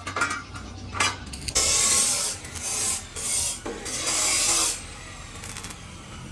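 A knock, then three rough scraping strokes of just under a second each, like a tool rasping over a hard surface.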